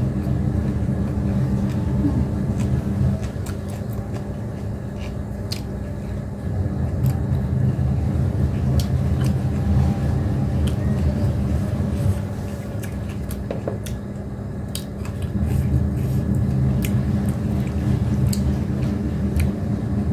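A person chewing food while eating by hand, with scattered small mouth clicks and smacks. Under it, and louder, a steady low mechanical hum swells and fades every few seconds.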